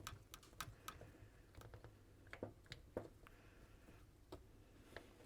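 Faint, scattered small clicks and ticks of hands and a tool working on the microphone's metal body, as a screw is driven in and bites.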